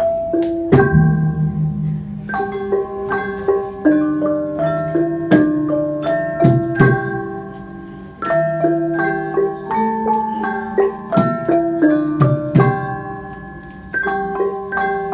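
Malay gamelan ensemble playing a melody: bronze keyed instruments struck with mallets in a steady stream of ringing notes, over deeper sustained tones from the larger gongs and kettles.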